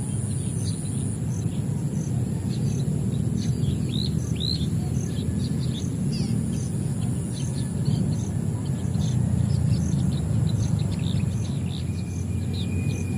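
Many small birds chirping in short, quick calls over a steady high insect drone with an evenly repeating pulse, like crickets. A steady low rumble sits underneath and is the loudest part of the sound.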